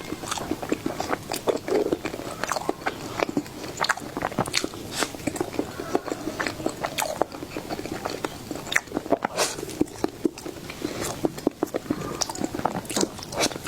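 Close-miked mouth sounds of a person eating dessert: biting and chewing, with many short, irregular clicks.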